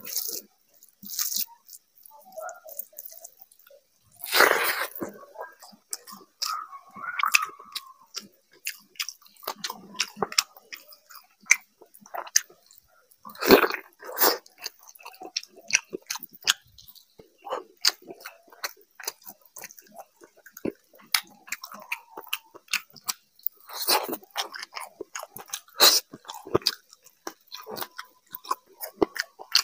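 A man chewing handfuls of rice and river fish curry eaten by hand, close to a clip-on microphone: wet chewing with many small smacks and clicks. There are louder bursts about four seconds in, around fourteen seconds in, and twice near the end, as rice and curry are squeezed and mixed by hand.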